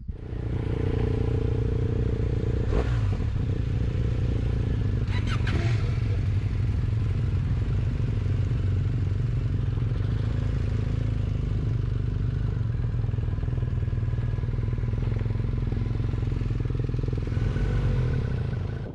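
Motorcycle engine running steadily at speed, with a brief clatter about three seconds in and another about five and a half seconds in.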